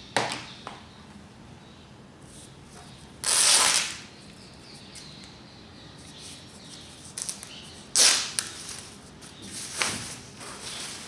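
Packaging being handled during an unboxing: a few short rustling bursts and light knocks, about a second in, near the middle and near the end, with quiet room tone between.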